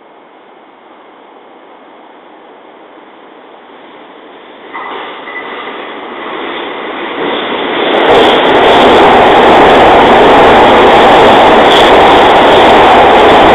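Limited express electric train approaching and passing close by on the nearest track. Its running noise grows louder from about five seconds in and is loud and steady from about eight seconds on as the cars go past.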